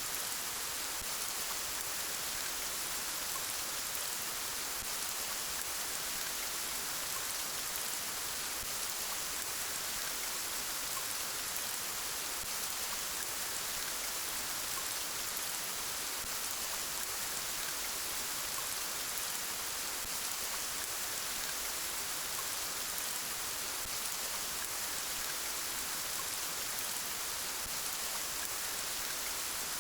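Steady rain falling, an even hiss of many small drops that does not change.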